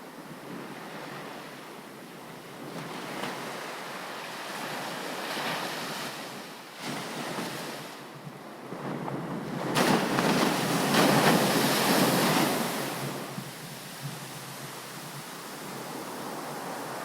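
Ocean waves breaking on a beach: steady surf that swells and ebbs, with one big wave crashing and washing in near the middle, loudest from about ten to thirteen seconds in. Some wind on the microphone.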